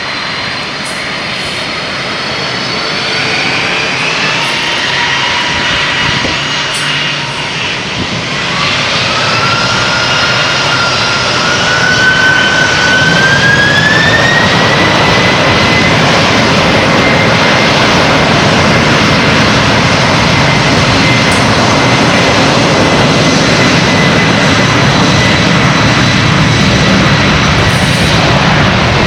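Boeing 747's jet engines spooling up to takeoff thrust: several whining tones rise in pitch over a few seconds, then hold level as the engine noise grows louder and stays loud and even.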